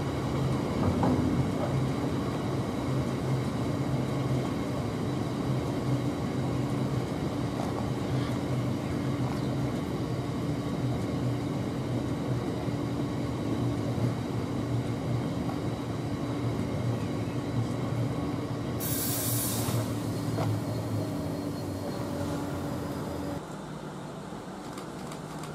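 Freight train of open box wagons rolling past on the near track, their wheels rumbling and humming steadily on the rails, with a brief hiss about two-thirds of the way through. The rumble cuts off abruptly near the end, leaving a quieter station background.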